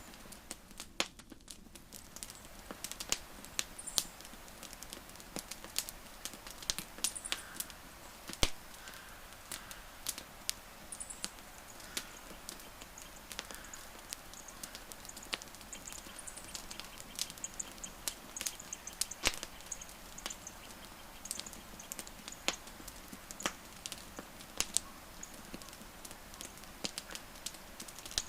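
Wood campfire crackling, with irregular sharp pops and snaps over a soft steady hiss. Faint high chirps come and go in the background.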